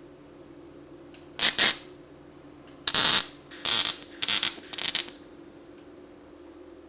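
Five short bursts of welding on car body panel steel, each about a third of a second long, like a run of tack welds, over a steady low hum.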